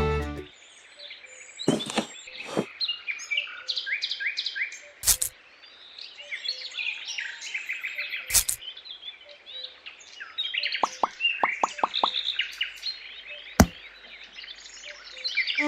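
Small birds chirping in quick, short, repeated calls, with sharp knocks or taps scattered through and a quick run of about five light taps about two-thirds of the way in.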